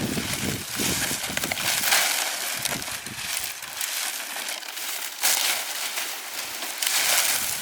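Rustling, crackling noise in uneven surges, strongest about two seconds in, around five seconds in and near the end.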